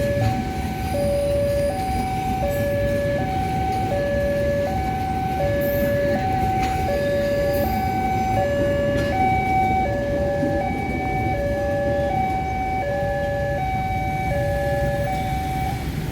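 Two-tone hi-lo warning siren alternating steadily between a lower and a higher note, about one switch every three-quarters of a second, stopping shortly before the end. A continuous low rumble of rail or vehicle noise runs underneath.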